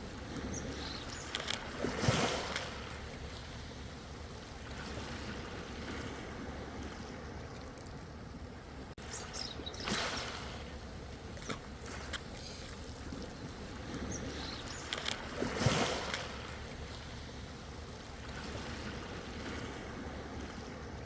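Ocean waves breaking and washing in: three surges of surf about six to eight seconds apart, the first and last the loudest, over a steady low rumble of the sea.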